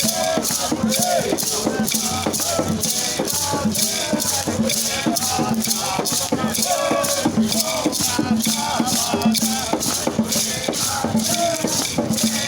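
Rattles shaken in a steady beat, a couple of strokes a second, under several voices singing a chant.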